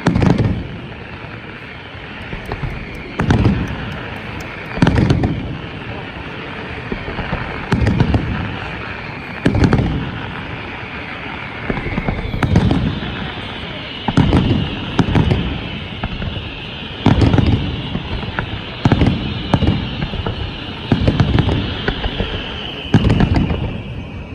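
Fireworks display: aerial shells bursting in a series of about a dozen deep booms, one every one to three seconds, with crackling and a steady hiss between the bursts.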